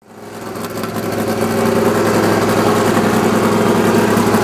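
Supercharged Chevrolet ZZ572 big-block V8 running steadily at idle, fading in over the first second and a half.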